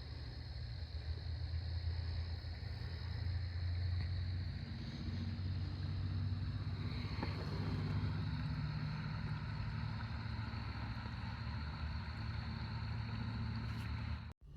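A boat's outboard motor running steadily at an even speed, a low hum with a thin high whine above it. It cuts off abruptly near the end.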